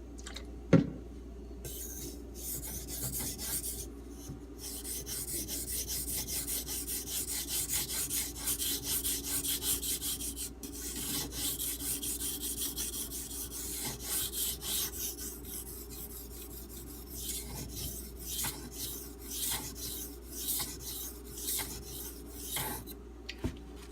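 D2 steel knife blade being stroked back and forth across a muddy 3000-grit Arkansas water stone: a long run of rasping scrapes, under light pressure from the hand and the knife's weight. One sharp knock comes about a second in.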